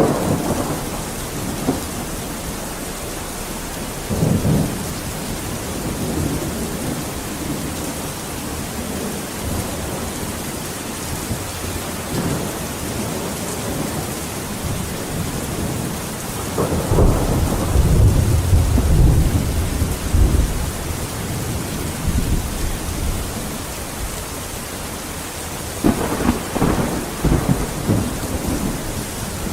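Steady heavy rain with rolling thunder: a few low rumbles swell up over the rain, the biggest and deepest a little past the middle, lasting several seconds.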